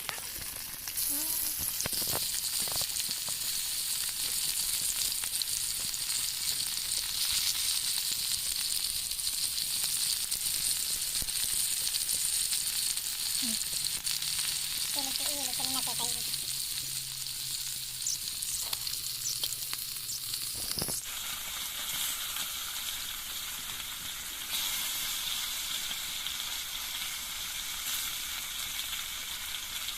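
Food frying in hot oil in a pan: a steady sizzle with a few clicks, changing abruptly in texture about two-thirds of the way through.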